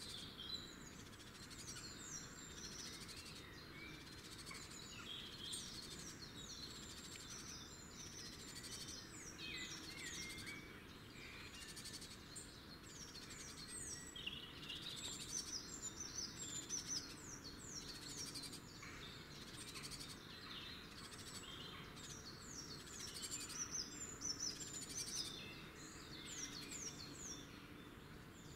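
Wild birds singing outdoors: runs of short, high chirps that drop quickly in pitch, repeated all the way through, over a faint steady background hiss.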